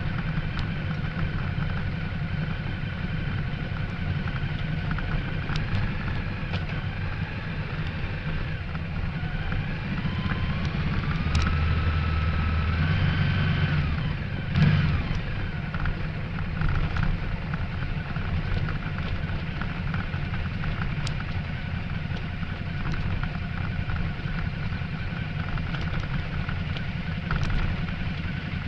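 Ducati Multistrada 1200S L-twin engine running steadily under the rider on a gravel road descent, with wind and road noise. About ten seconds in the engine note rises and runs louder for a few seconds, and there is a brief jolt halfway through.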